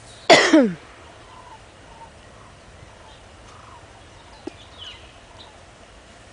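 A loud animal call about a third of a second in: one call under a second long, in two parts, each falling steeply in pitch. Faint high chirps follow a few seconds later.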